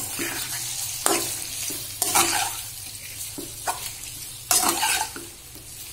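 Chicken pieces sizzling in hot oil in a metal wok, turned with a metal spatula that scrapes across the pan in several strokes.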